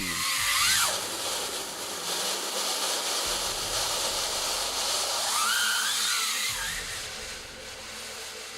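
Vacuum floor machine sucking through a wool rug: a steady hiss of rushing air, with a whistling tone that rises and falls in the first second and again around five to six seconds in, easing off near the end.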